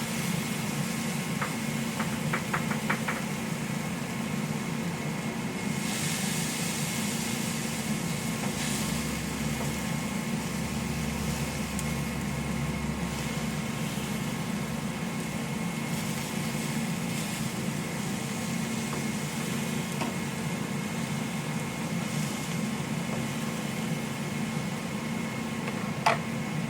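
A steady mechanical hum, like a running fan or kitchen appliance, with a few light clicks about two seconds in and brief rises of hiss around six and nine seconds.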